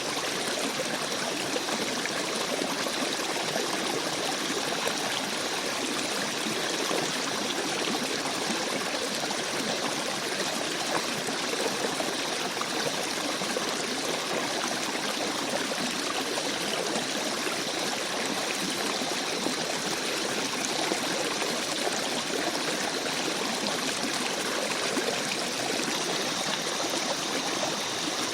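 Shallow forest stream babbling and trickling over stones, steady and unbroken.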